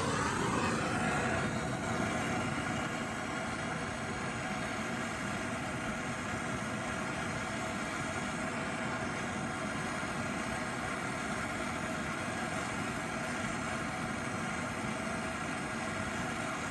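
Handheld gas torch burning with a steady, even hiss, heating a seized strut bolt nut to free it.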